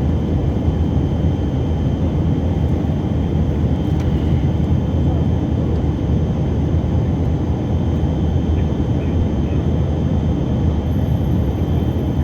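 Cabin noise of a Tupolev Tu-134 in level flight: a steady, loud roar of airflow and its two rear-mounted Soloviev D-30 turbofans, with a faint steady high whine above it.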